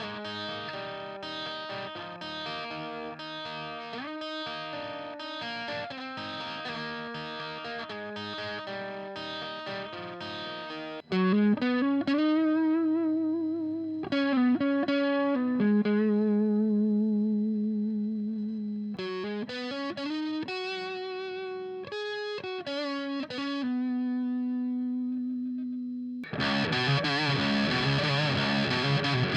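Electric guitar played through a mini amp into a mic'd 4x12 cabinet with Celestion V30 speakers: a picked arpeggiated passage, then from about eleven seconds in a louder lead line of held, bent notes with vibrato. Near the end it switches to a dense, distorted high-gain riff.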